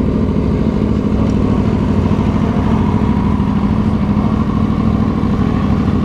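Aprilia Tuono V4 1100RR's V4 engine running steadily at low revs, with an even, unchanging note.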